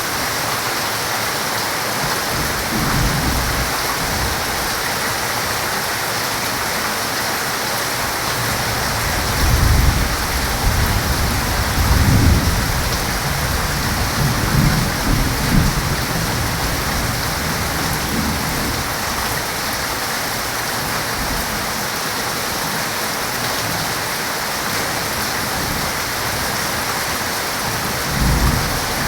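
Heavy rain falling steadily, with thunder rumbling low: a long rolling stretch about a third of the way in, and another rumble near the end.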